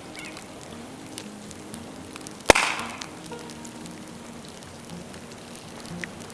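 Dry bamboo burning in a bonfire: a single loud crack about two and a half seconds in, with a short hiss trailing after it, over light crackling. A second crack comes at the very end.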